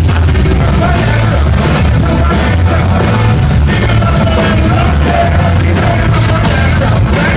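Live band playing loud, bass-heavy music with vocals over it.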